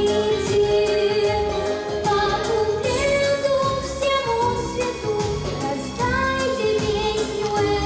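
A young girl singing long held notes over an instrumental pop backing track.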